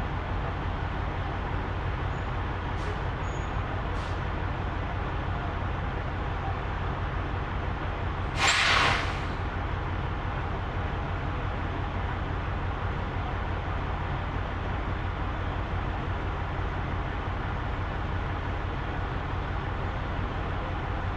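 Semi truck's engine and road drone inside the cab, steady and low, with a short loud hiss of air from the truck's air system about eight and a half seconds in.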